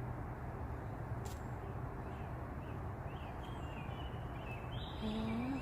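Outdoor background with a few faint, short bird chirps in the second half over a steady low rumble, and a single sharp click about a second in.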